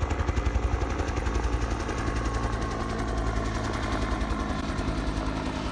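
A small engine running steadily at idle: a fast, even pulsing over a low hum.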